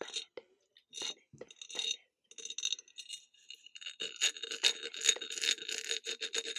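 Close-miked ASMR clicking and tapping: a few separate clicks, then from about two and a half seconds in a dense run of fast, crackly clicks that thickens toward the end.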